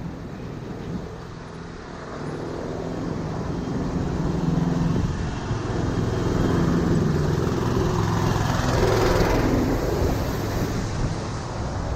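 Road traffic with a motor vehicle's engine growing louder as it comes close, loudest about nine seconds in, then easing off a little.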